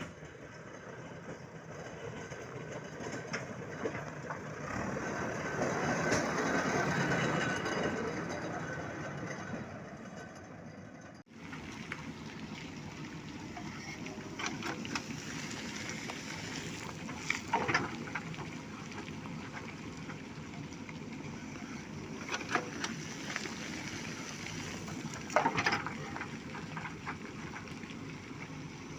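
JCB backhoe loader's diesel engine running. It swells louder and eases back in the first part, cuts off abruptly, then runs steadily with a few sharp knocks of stones being loaded.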